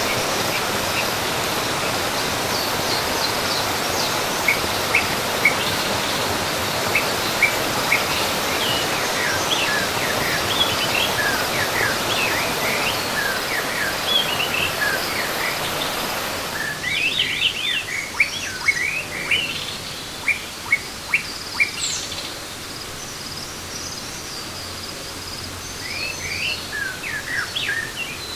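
Steady rush of a waterfall with many birds chirping over it. About two-thirds of the way through, the water noise drops away suddenly, leaving bird calls, some louder and in quick runs, over a quieter background.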